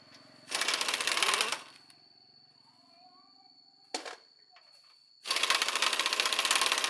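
Two bursts of rapid mechanical clicking, each a second or more long, with a single sharp click between them.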